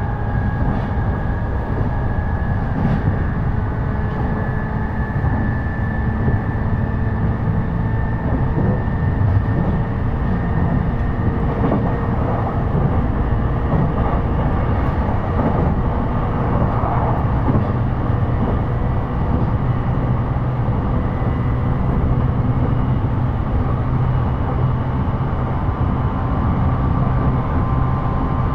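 Running noise inside a JR E233-series electric train at speed: a steady rumble of wheels on rail, with a faint whine held at a few steady pitches.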